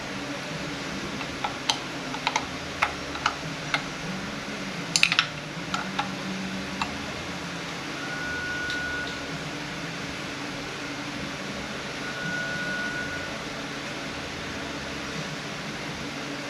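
Sharp clicks and knocks of small metal parts and hand tools being handled on a workbench during a transmission teardown, with a burst of several clicks about five seconds in, over a steady shop hum. Later come two faint short high beeps, each about a second long.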